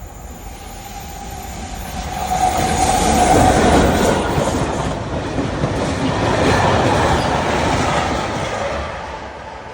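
A train running through a railway station, its rumble and wheel clatter swelling to a peak and then fading away.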